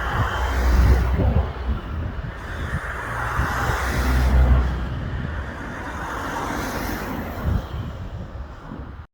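Aircraft engine noise, a steady rush that swells around four seconds in and then eases, with low rumbling gusts about a second in and again around four seconds.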